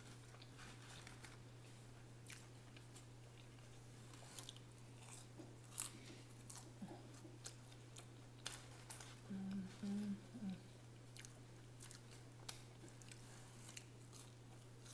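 Close-miked chewing of McDonald's french fries: soft, scattered crunches and wet mouth clicks. A brief low vocal hum about ten seconds in, over a steady faint low hum.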